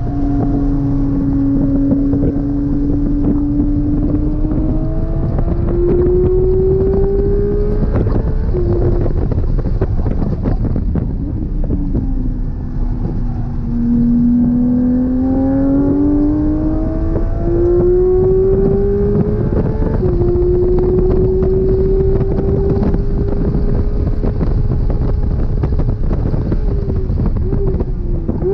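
Porsche 992 GT3 RS's naturally aspirated flat-six at full track pace. The engine note climbs under acceleration, drops sharply at a gear change about eight seconds in, and sinks as the car slows for a corner. It climbs again to another shift near the end and then holds fairly steady, over heavy wind and road noise.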